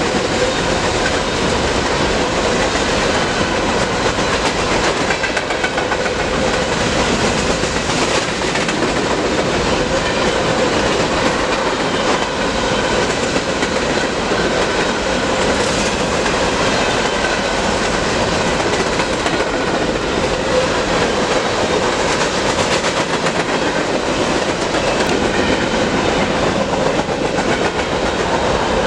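BNSF freight train's cars rolling past close by, wheels clacking over the rails in a steady, loud rumble.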